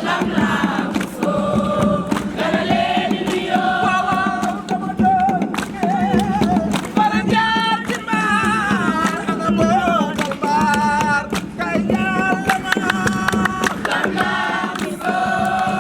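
A group of campers singing a campfire song together, with sharp percussive beats running through it.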